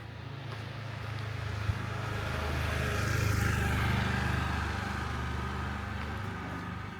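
A motor vehicle driving past, its engine hum growing louder to a peak about halfway through and then fading away.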